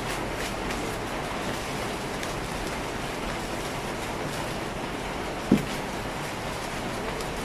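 Steady hiss with a few faint clicks of packaging being handled, and one short dull bump about five and a half seconds in, as the phone's box is knocked or set down.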